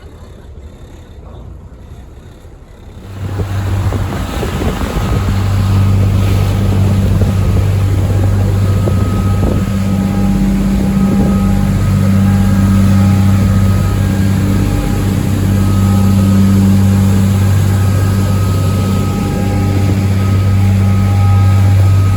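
Twin Caterpillar 3116 diesel engines of a motor yacht running, a steady low drone, with wind buffeting the microphone. It jumps much louder about three seconds in.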